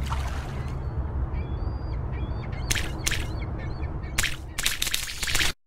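Birds calling over a steady low rumble: short chirps, then several harsh, caw-like calls in the second half. The sound cuts off suddenly near the end.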